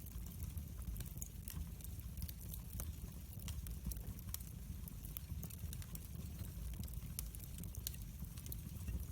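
Wood fire in a fireplace crackling: irregular sharp pops and ticks over a steady low rumble.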